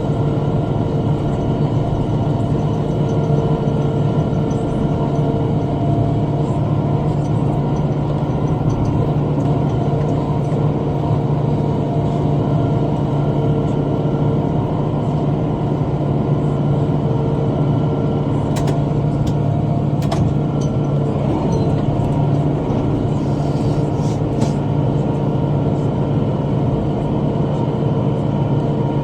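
Tractor engine running steadily under load while driving a rotary cutter (bush hog) through brush, with a few sharp clicks about two-thirds of the way through.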